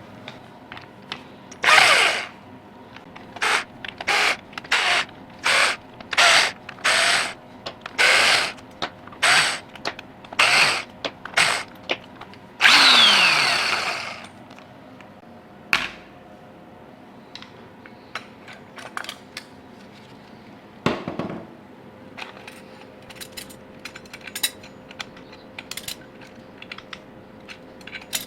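Cordless drill-driver run in a dozen short bursts, then one longer run whose pitch falls away as it spins down, undoing the bolts of the engine's side casings; light clicks of tools and parts and one knock follow.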